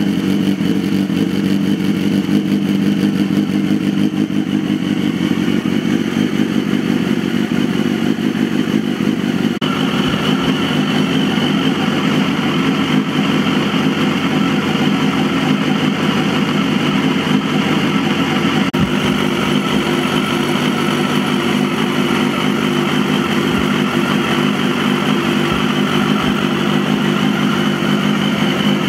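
Honda CBR250RR's 250 cc inline-four engine running at a steady speed through a Tyga sport exhaust fitted with a dB-killer, while its four carburettors are being synchronised. The sound turns brighter about ten seconds in and then stays steady.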